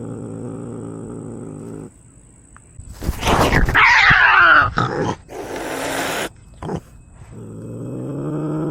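Cats in a standoff: a low, steady growl, then a loud hissing outburst about three seconds in and a second hiss a couple of seconds later, and a low, slowly rising yowl that starts near the end.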